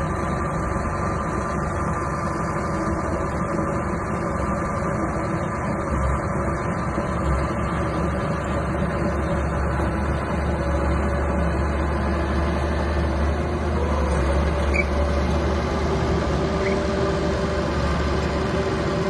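Small bulldozer's diesel engine running steadily at work, its note shifting a little about fourteen seconds in.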